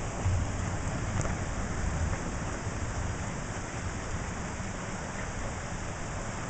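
Steady rain falling in a thunderstorm, with a low rumble of thunder dying away over the first couple of seconds.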